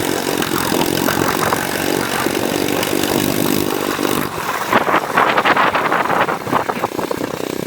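Small pit bike engine running and revving, its pitch rising and falling.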